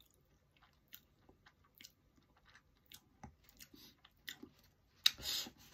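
A person chewing a mouthful of soft fried pastry, with small wet clicks and crackles. A short, louder rustling noise comes near the end.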